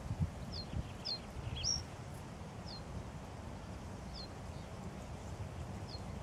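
A small bird calling in short, high chirps that slide downward, about one every second or so, over a steady low rumble.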